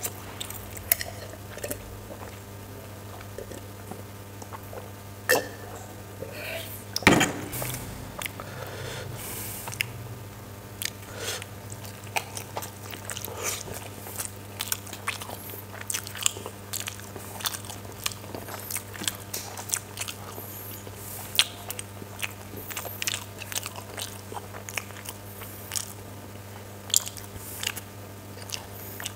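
Close-miked eating of steamed chicken momos and noodles: chewing and biting with many short wet mouth clicks and smacks, a few louder ones about seven seconds in, over a steady low hum.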